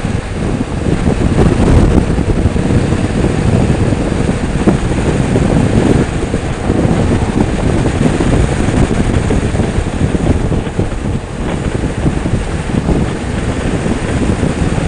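Wind buffeting the microphone over a motorcycle running at road speed.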